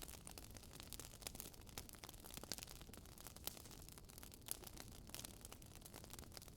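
Wood fire crackling quietly: irregular small pops and snaps over a soft hiss.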